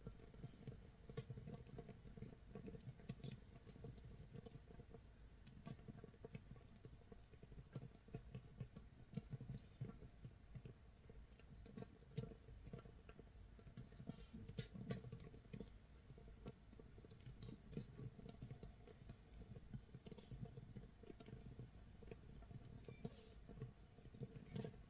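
Makgeolli starter mash (mitsul) fermenting in a jar, about 24 hours in: a faint, dense crackle of tiny bubbles popping, irregular like light rain or rice crust sizzling.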